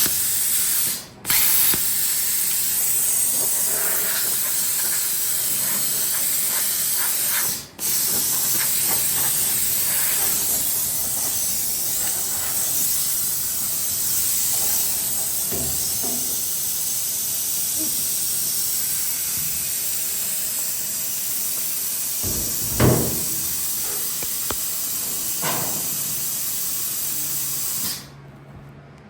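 Plasma cutter hissing steadily as it cuts rusted sheet steel. The hiss drops out briefly twice in the first eight seconds as the arc is broken and restarted, and stops shortly before the end. A single knock sounds about three-quarters of the way through.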